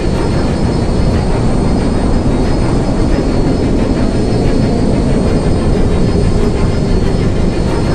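Steady, loud low rumble with a faint high whine above it.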